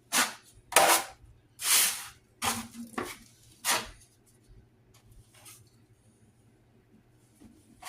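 A 12-inch drywall knife scraping 5-minute setting joint compound across a wall patch in short swipes, about six in the first four seconds and a faint one later, as the coat is smoothed out.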